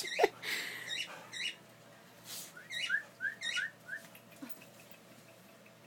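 Cockatiel chirping: a few short calls, then a quick run of about five short rising chirps between two and four seconds in.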